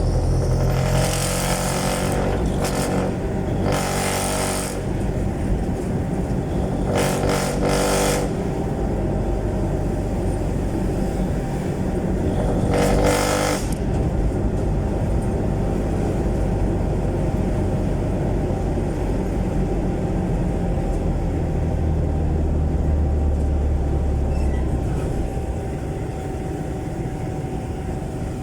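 Jeepney's Isuzu 4BC1 four-cylinder diesel engine running through a loud open exhaust, with a steady low rumble and four short louder bursts in the first half.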